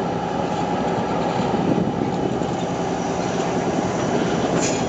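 Passenger train rolling along the rails, a steady rumble of wheels and car body, with a faint click near the end.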